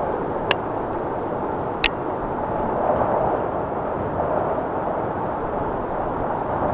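Mountain wind blowing hard across the microphone: a steady, rumbling rush with no let-up. Two sharp ticks stand out from it, about half a second and just under two seconds in.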